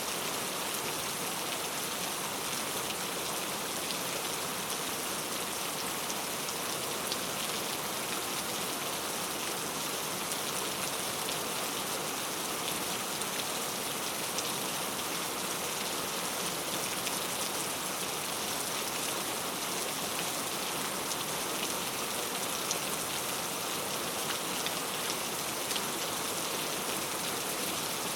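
Heavy rain falling steadily on mango leaves, a dense even patter of drops with scattered sharper drop hits.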